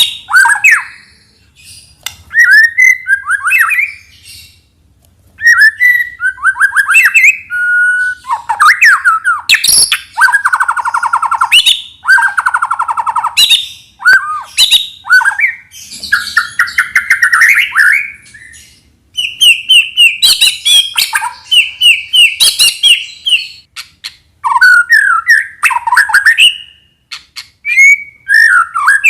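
White-rumped shama (murai batu) singing a loud, varied song: rapid buzzy trills, whistled glides and harsh chattering notes, with a fast run of repeated notes midway through.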